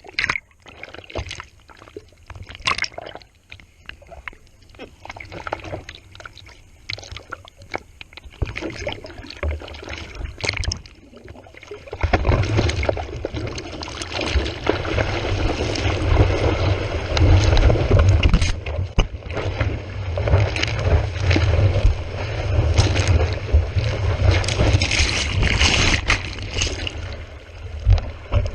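Sea water splashing and sloshing against a GoPro at the water's surface: scattered splashes and drips at first, then about twelve seconds in a louder, continuous rush of water with a low rumble that swells and fades.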